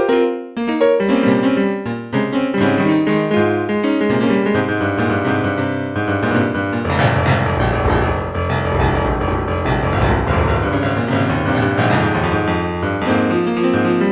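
Instrumental piano music with quick runs of notes, growing fuller, with a deeper bass, from about seven seconds in.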